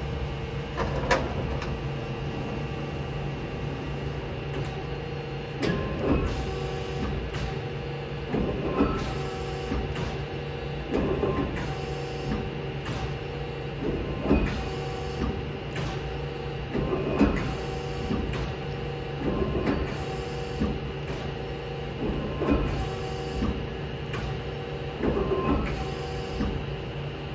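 Mazak Slant Turn 450 CNC lathe running under power: a steady hum with a short mechanical movement sound repeating about every three seconds.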